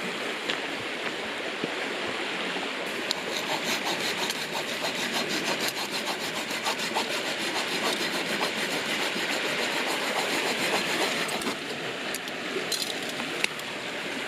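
Wood being sawn by hand: a quick, even run of rasping saw strokes starting about three seconds in and stopping a few seconds before the end.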